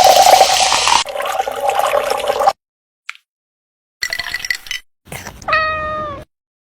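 Water running from a tap for about two and a half seconds, cut off suddenly. Two short clips follow near the end, the last holding a brief high call that falls in pitch.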